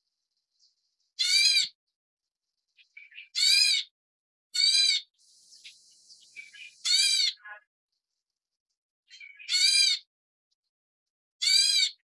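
A bird's short, harsh call, each one a series of quick down-and-up notes, repeated six times about every two seconds, with a brief hiss near the middle.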